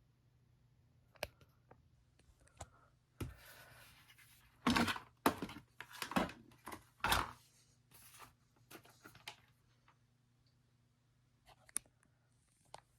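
Box fan's motor humming faintly and steadily, with a run of irregular clicks, rustles and thumps of handling over it, loudest about five to seven seconds in and a couple more near the end.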